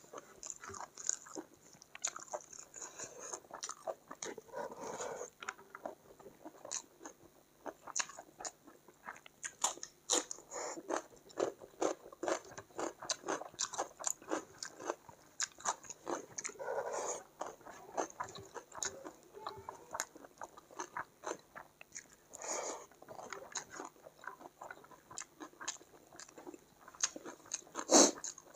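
Close-miked chewing and crunching of a chicken curry and rice meal: a steady run of sharp, irregular mouth clicks, bites and wet smacks.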